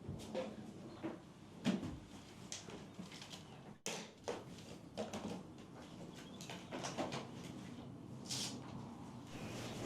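Scattered light knocks and clicks of objects being handled, with a short high hiss or chirp near the end.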